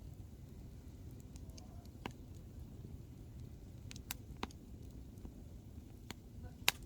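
Hardwood firewood burning in an open campfire: a low steady rumble of the flames with sharp, scattered pops and crackles as the logs burst, about five in all, the loudest near the end.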